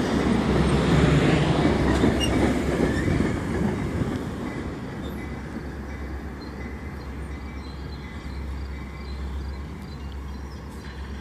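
Metra commuter train running on the rails, loud for the first four seconds or so, then fading to a lower steady sound as it moves away.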